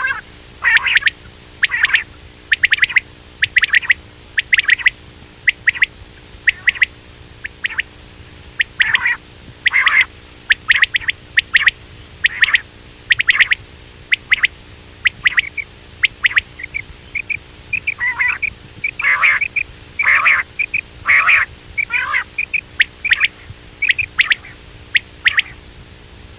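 Common quail (batair) calling over and over, short clipped notes in quick clusters, a few every second: a quail lure call.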